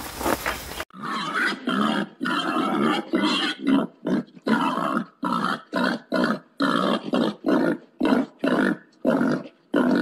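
Domestic piglets in a pen calling in short, loud bursts, about two a second, beginning about a second in after a brief stretch of outdoor background noise.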